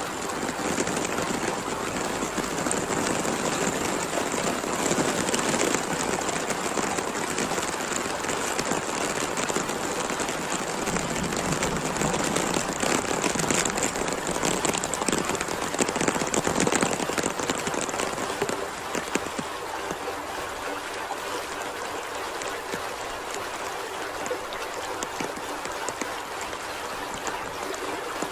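Heavy rain pouring down in a dense, steady hiss. The lowest part of the sound drops away about two-thirds of the way through.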